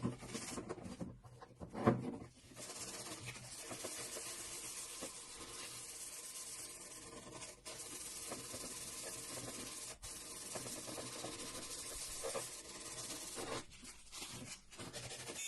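Steady abrasive rubbing, like sanding, that runs on with a couple of brief breaks, after two short knocks in the first two seconds.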